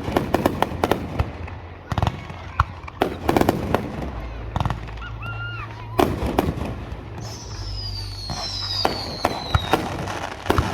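Aerial fireworks going off in a rapid series of bangs and crackles. A high whistle falls in pitch over a couple of seconds, about two-thirds of the way through.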